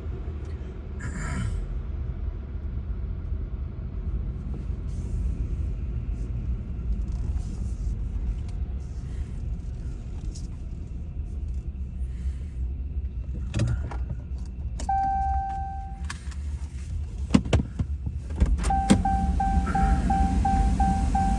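Low rumble of a car with its engine running, with a few clicks and knocks in the last third. A car's electronic warning chime sounds once briefly, then starts beeping repeatedly about three times a second.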